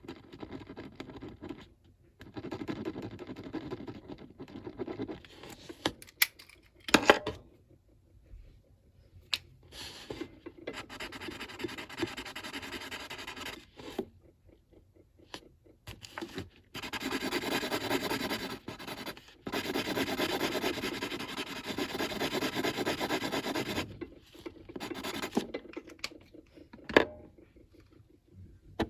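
Scratching of a colouring tool scribbled back and forth on paper, in stretches of rapid strokes lasting a few seconds each with short pauses between. A couple of sharp knocks come about 7 seconds in and near the end.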